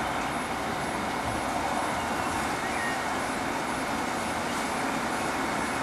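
Steady background noise with no distinct events, a level rushing haze from a recording whose sound has been boosted.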